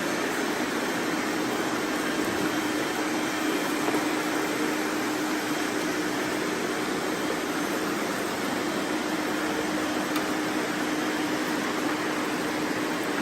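Robot vacuums running, a steady whir of suction motors and brushes with a constant low hum.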